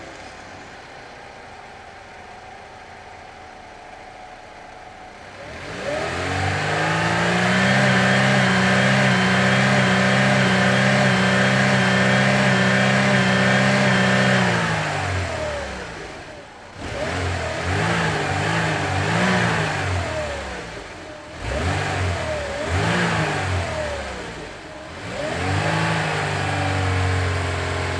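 Vehicle engine sound: after a few quiet seconds it revs up and holds a steady pitch for several seconds, drops away, then revs up and down several times in quick swells before settling at a steady level near the end.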